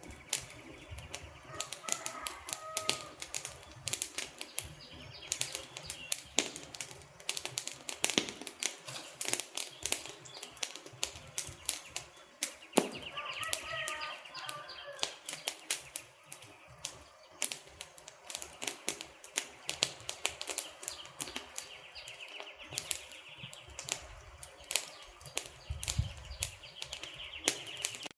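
Wood fire crackling, with many irregular sharp snaps and pops from the burning logs.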